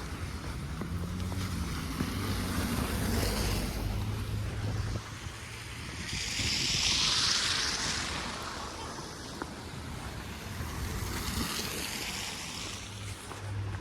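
Snowstorm wind blowing in gusts and buffeting the microphone, a steady hiss with a low rumble that swells loudest about halfway through.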